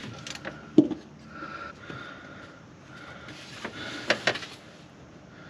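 A few scattered clinks and knocks of hand tools and metal parts being handled while working under a car. One knock comes about a second in, and a quick cluster of three comes near the end.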